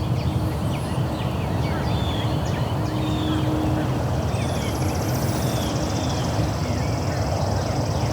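Morning birdsong: many birds chirping and whistling at once, with a fast buzzing trill starting about halfway through, over a steady low rumble.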